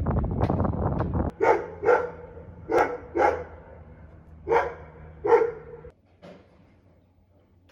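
A dog barks six times, in three pairs, the barks being the loudest sound. Before that a rattling power tool runs and cuts off suddenly about a second in.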